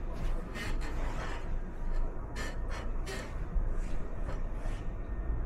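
A person's breathing close to the microphone: a string of short, breathy puffs, about eight over a few seconds, over a steady low rumble.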